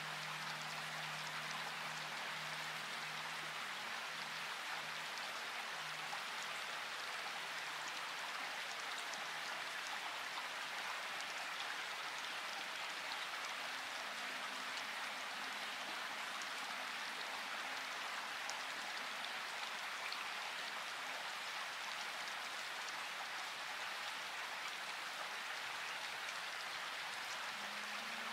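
Steady rain falling, an even hiss of many drops with no breaks. Faint low held tones sound underneath during the first third and again around the middle.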